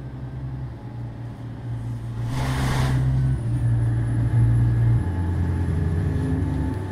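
Scania truck's diesel engine running, heard from inside the cab, its drone stepping up and down in pitch, with a short hiss of air about two and a half seconds in.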